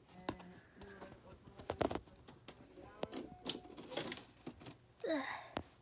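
Scattered sharp plastic clicks and taps from a DVD case and disc being handled, irregular rather than rhythmic.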